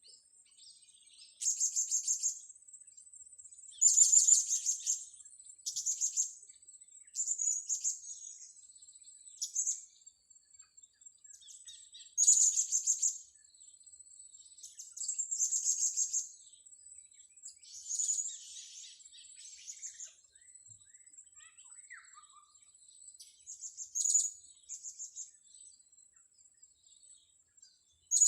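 Blue-crowned hanging parrots (serindit) calling: about a dozen short, very high-pitched chirping bursts a second or two apart, over a thin steady high tone.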